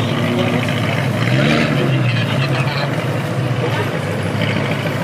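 BMW E92 M3's V8 running low and steady as the car pulls away slowly, with a short blip of revs about a second and a half in.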